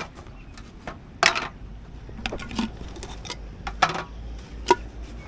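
Clinks and knocks of small camping stove gear being handled: a gas canister holder and a compact stove boiler being picked up and set down. Scattered sharp knocks, three or four louder ones among lighter taps.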